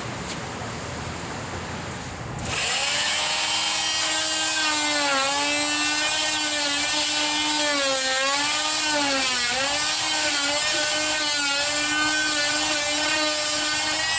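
Power tool motor whirring steadily, starting about two and a half seconds in, its pitch sagging briefly a few times as it takes load.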